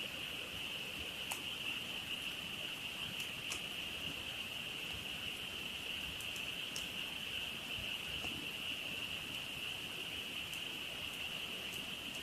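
A frog chorus: a dense, steady, high-pitched chorus that never breaks. Scattered through it are sharp single crackles from a wood campfire, about ten over the stretch.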